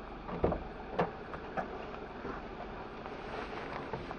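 A vehicle's engine running steadily, with a few short sharp knocks, the loudest about half a second and a second in, during the recovery of a car whose wheel dropped off the road edge.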